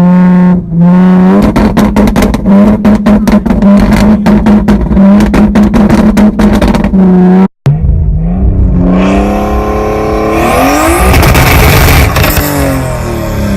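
Car engine held at high revs, stuttering rapidly, for about seven seconds; the sound then cuts off abruptly. The car is then driven hard, revs rising and falling, over loud tire squeal as it does a burnout or donuts.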